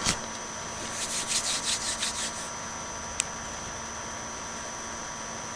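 A short run of quick, scratchy rubbing strokes, followed about a second later by a single sharp click, over a steady background hiss and faint electrical hum.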